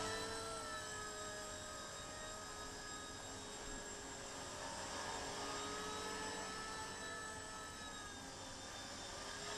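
Eachine E119 micro RC helicopter hovering: a steady high whine of its small electric motors and rotor, the pitch drifting slightly as the throttle changes.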